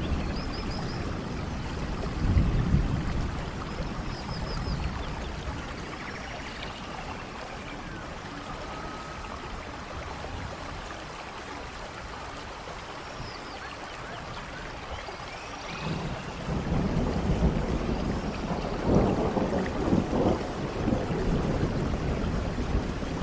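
Steady rain falling in a rainforest, with thunder rumbling about two seconds in and again, louder and longer, from about sixteen seconds. A few short high calls sound faintly over the rain.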